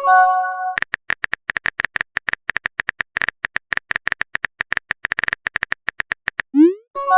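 Phone-keyboard typing sound effect: a long run of rapid clicks, about ten a second. A short multi-note chime opens it, and near the end a quick rising swoop leads into the same chime, the sound of a text message being sent.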